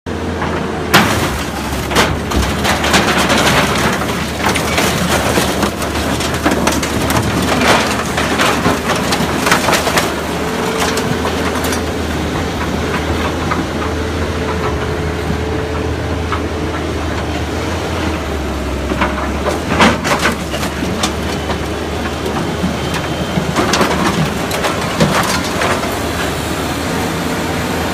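A heavy diesel machine running steadily under load while crushing an old truck body: crunching, splintering and scraping of metal and wood, broken by sharp cracks, the loudest about a second in and again near the twenty-second mark.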